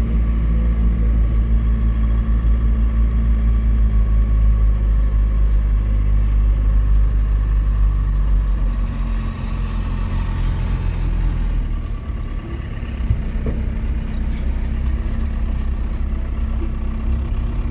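Motor vehicle running steadily with a loud low drone, which shifts and eases a little about halfway through.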